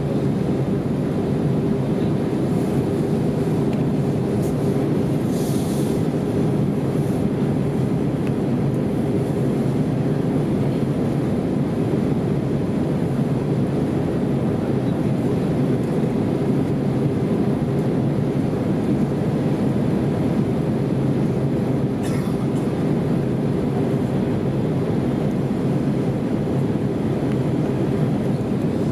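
Steady cabin drone of an Airbus A320 in flight: jet engine and airflow noise with a constant low hum.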